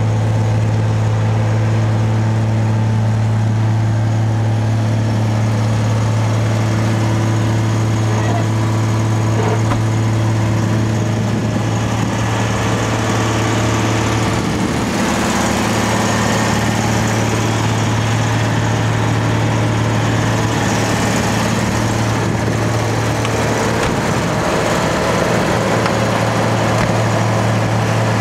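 The Rolls-Royce-built 3.9-litre straight-six of a 1967 Vanden Plas Princess 4-Litre R idling steadily, a constant low hum with a slight change in tone about halfway through.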